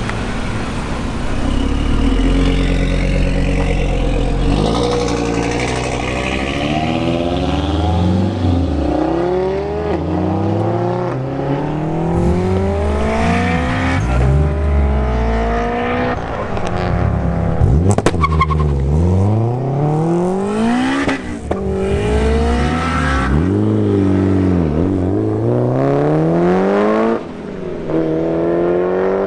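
Tuned performance car engines accelerating hard, revving up through the gears again and again, each rise in pitch ending in a sudden drop at the shift. A sharp crack comes about eighteen seconds in.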